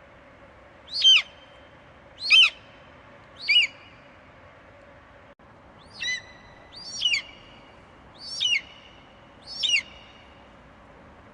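Eagle calling: seven short, high screeches, each falling sharply in pitch, about a second apart with a longer pause in the middle, over a faint steady hum.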